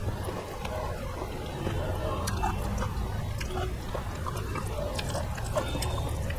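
Close mouth sounds of a man chewing a mouthful of rice and potato curry, with many small wet clicks and smacks. Fingers also work the rice on the plate.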